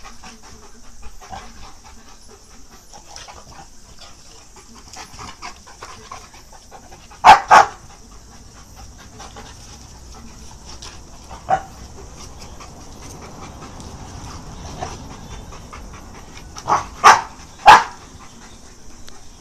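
Dogs at play, panting, with short sharp barks: two together about seven seconds in, a single one a few seconds later, and three more near the end.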